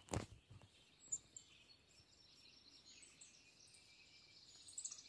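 Faint songbird chirps and a high trill, with a soft thump right at the start.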